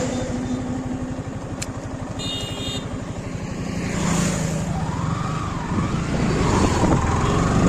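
Motorcycle engine running while riding, its steady pulsing growing gradually louder. A short, high beep sounds about two seconds in.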